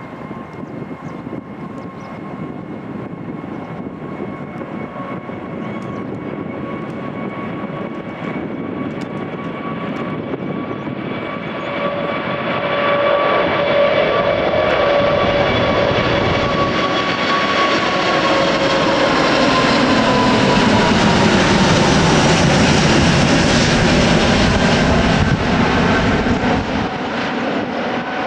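Emirates Airbus A380-842, its four Rolls-Royce Trent 900 engines at takeoff power on the departure: the jet noise builds steadily, is loudest about two-thirds of the way through, and the engines' whine drops in pitch as it passes, then starts to fade near the end.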